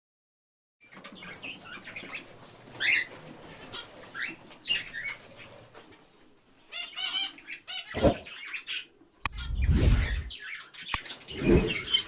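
Bird chirps beginning about a second in, followed by a few louder rustling bursts in the second half, the loudest about ten seconds in.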